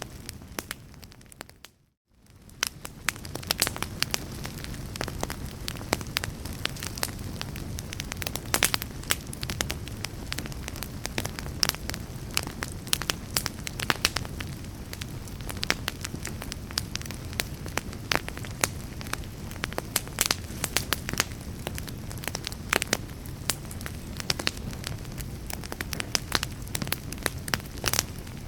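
Fireplace fire crackling, with frequent sharp pops over a low steady rumble. About two seconds in the sound briefly fades almost to silence and swells back.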